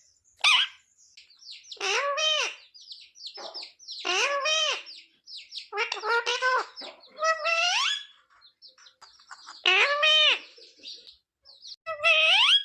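Pet parrot calling: a run of short, high calls that rise and fall in pitch, about one every two seconds, with quick chirps in between.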